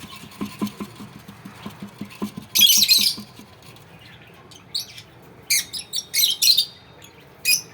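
Young African lovebirds calling: one long harsh, raspy squawk about two and a half seconds in, then a run of short, sharp squawks in the second half.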